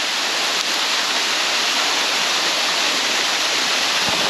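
Steady, loud rushing of a waterfall close by.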